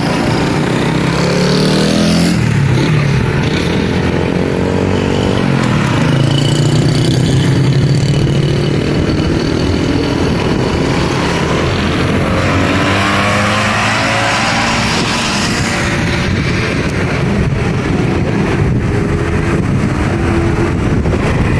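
Honda Super Cub engine running, its pitch rising and falling several times as the throttle is opened and closed.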